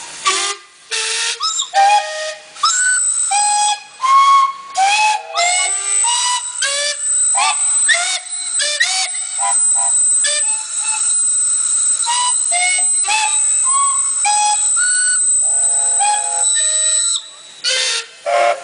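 Steam whistles on a line of traction engines blown one after another in a 'Mexican wave', many short blasts at different pitches overlapping and passing along the row. One high whistle is held steadily from about five seconds in until near the end.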